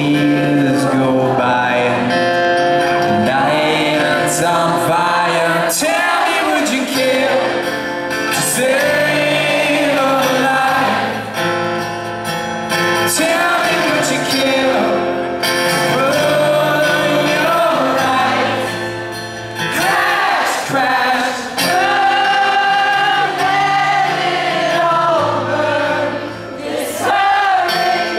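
Live acoustic rock song heard from the audience: a male lead vocal with acoustic accompaniment, and many voices singing along.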